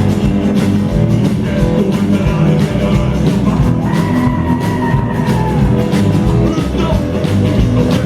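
Rock band playing an instrumental stretch between sung lines: guitar over a steady drum beat, with one long held note from about four to six seconds in.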